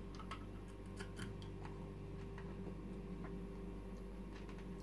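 Faint, scattered crisp clicks and crackles of someone chewing a crunchy caramel M&M's candy, thickest in the first second and a half, over a steady low hum.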